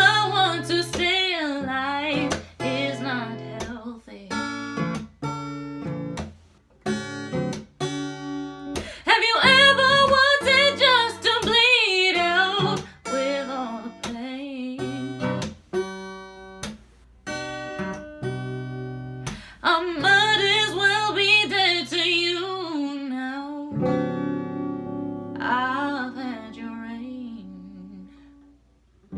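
Singing over an acoustic guitar, the voice holding long, wavering notes with no words the recogniser could pick out. Near the end the voice stops and the guitar's last notes ring and fade away.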